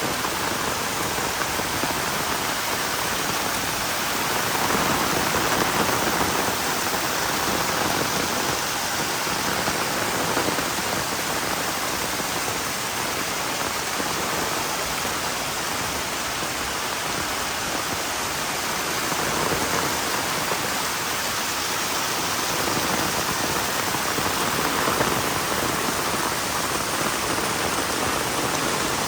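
Heavy rain falling steadily, a dense even hiss that swells a little in strength now and then.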